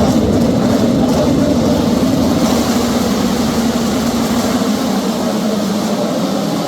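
Pack of Moto2 race motorcycles with Triumph 765 cc three-cylinder engines running hard at high revs, a steady, loud engine note. The deep rumble beneath it thins out after about four and a half seconds.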